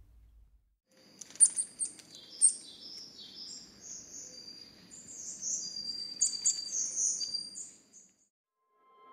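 Small birds chirping and twittering in quick high-pitched notes over a faint background hiss, with a few sharp, louder chirps in the first couple of seconds; it starts about a second in and stops about a second before the end.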